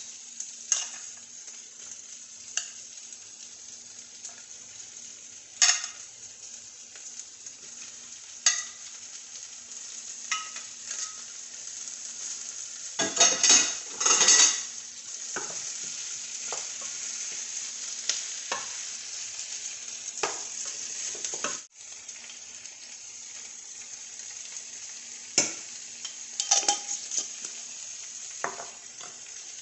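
Meat and vegetables sizzling as they fry in a pan, with knocks and scrapes of a wooden spoon stirring. A louder run of clatter comes about halfway through as the chunks of browned meat go back into the pan.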